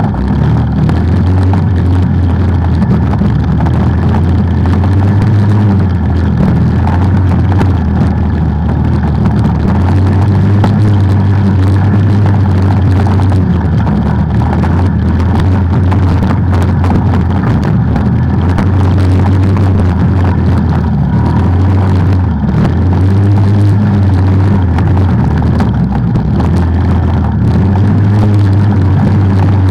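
Off-road vehicle engine running while riding a trail, a loud steady drone whose pitch steps up and down repeatedly as the throttle and speed change, over constant road and wind noise.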